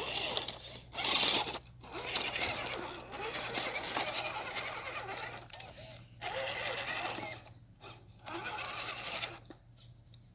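Small electric motor and geared drivetrain of an Axial SCX10 II RC rock crawler whirring in spurts as it crawls over rocks, stopping briefly several times.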